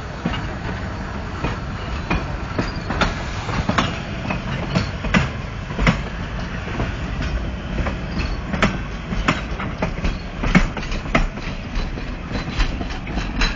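Narrow-gauge train's cars rolling past close by, wheels clicking irregularly over the rail joints above a steady low rumble.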